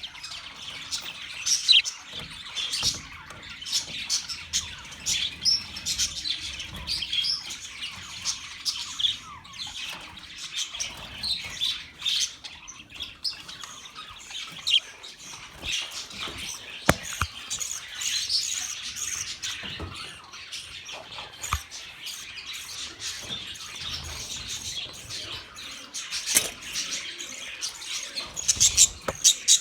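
Budgerigars chattering and chirping together in a flock, many overlapping fast warbles and squawks, with scattered short clicks.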